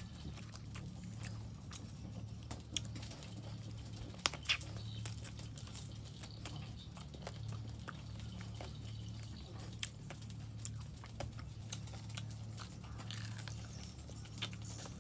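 Close-up chewing and crunching of battered fried chicken feet, with wet mouth sounds and a few sharp crunchy bites, the loudest about three and four seconds in, over a steady low hum.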